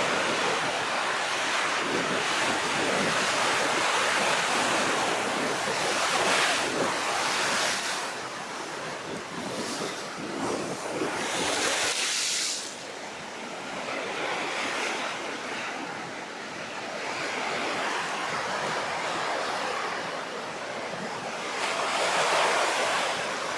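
Rough sea surf: waves breaking and washing in heavy, irregular surges, with wind buffeting the microphone.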